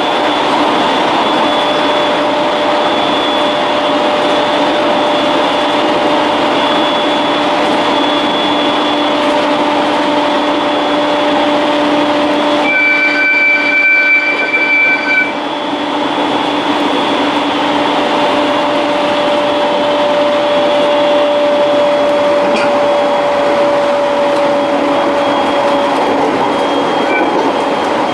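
Steady running noise heard from inside an electric train, with a constant motor whine. About halfway through, a train horn sounds for about two and a half seconds as a freight train passes close alongside.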